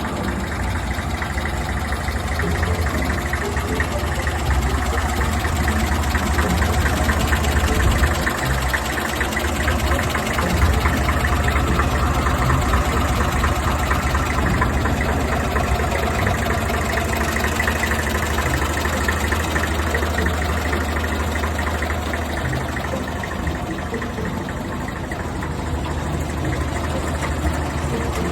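Deutz D40 tractor's air-cooled diesel engine running steadily at a low, even speed.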